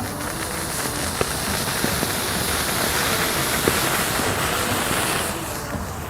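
Rows of match heads flaring up in a chain, a loud continuous hiss with scattered crackles and pops that dies down about five seconds in. Background music plays underneath.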